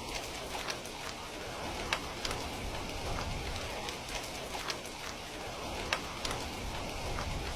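Steady rain, with sharp crackles and pops from a wood fire at irregular intervals.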